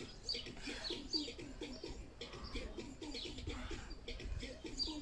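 Garden birds singing: short falling chirps repeated again and again, over a lower run of quick repeated notes and a low rumble.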